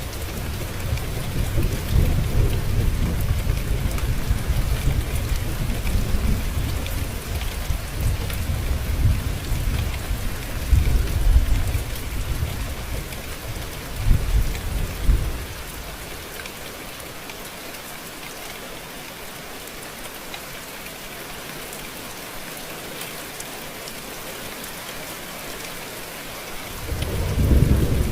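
Steady rain falling with rolling thunder rumbling through the first half, swelling twice before fading out about halfway, leaving only the rain hiss; thunder rumbles up again near the end.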